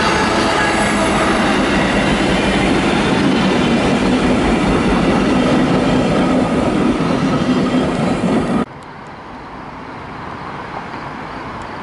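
A train passing close by: steel wheels rolling on the rails with a thin high squeal over the rumble. It cuts off suddenly about nine seconds in, leaving quieter outdoor background.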